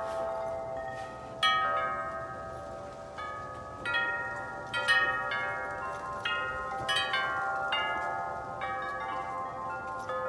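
Wind chimes blown by the wind, struck at irregular moments, their long ringing tones overlapping; a few strikes stand out louder, about a second and a half in and around four to five seconds in.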